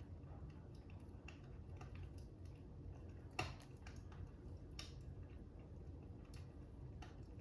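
Fire crackling: scattered, irregular small pops over a low steady rumble, with one louder pop about three and a half seconds in.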